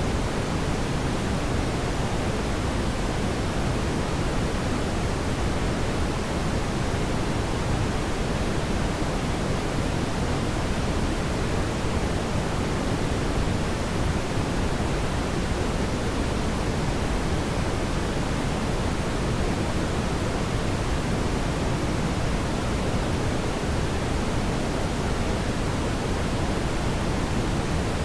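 Steady, even rushing noise of a fireplace ambience bed, heavier in the low end and unchanging throughout, with no distinct crackles or pops.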